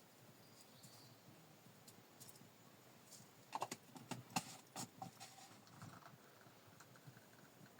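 Near silence, broken about halfway through by a short run of light clicks and knocks lasting about a second and a half.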